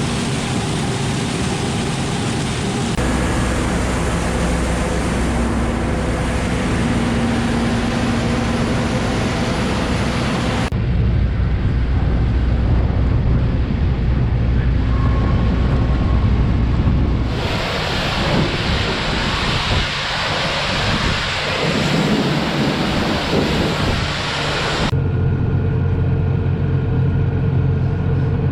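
Heavy farm machinery running: a steady low engine hum under a loud rush of noise. The sound changes abruptly four times, as if cut between different recordings.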